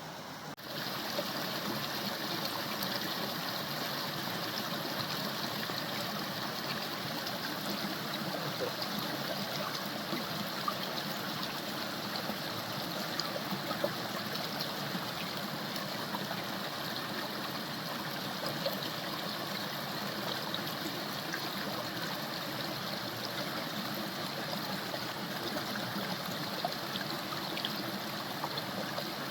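Steady rush of flowing water from a waterfall and its stream. There is a brief dropout about half a second in, then the sound becomes slightly louder and holds even.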